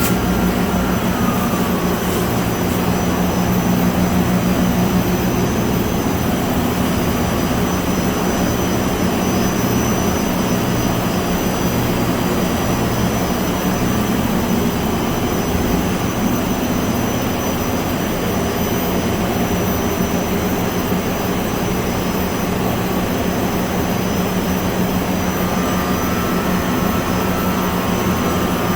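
Extruder and automatic turret rewinder running: a steady machine drone with a low hum and a faint high whine. A short falling tone about a second in.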